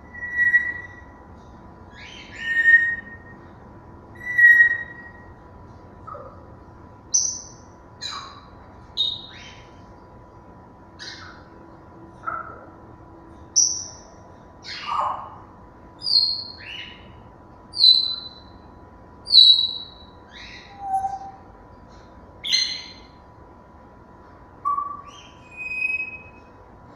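African grey parrots calling: a string of short whistles and squawks about one a second, some clear and pitched, some harsher.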